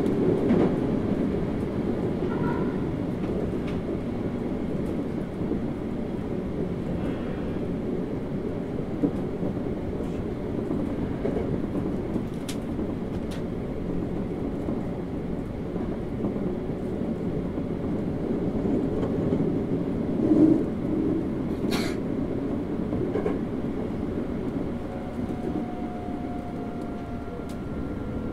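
Toei 5300 series electric train running at speed: a steady rumble of wheels on rail, with a few sharp clicks along the way. A faint whine from the traction motors appears near the end.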